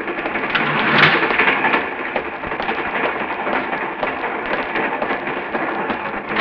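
Radio-drama sound effect of a railway train running: a steady rumbling rattle with many small clicks, swelling slightly about a second in.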